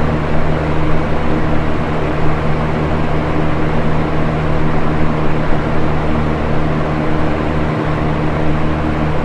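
Electric box fan running steadily: an even whoosh of moving air over a low, steady motor hum.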